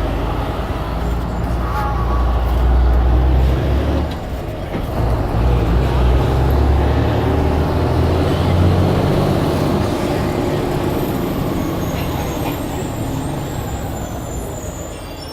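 Blue Bird All American bus engine running under load, its note rising, dropping briefly about four seconds in, rising again, then fading toward the end.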